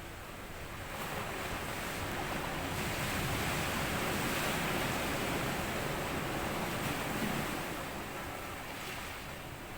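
Sea waves breaking and washing up a sandy beach: one wave swells in about a second in, runs up the shore as a long rush of surf, and draws back near the end.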